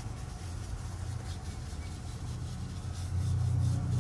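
Quick repeated scrubbing strokes of a brush or cloth rubbing over engine-bay surfaces, over a steady low hum that grows louder near the end.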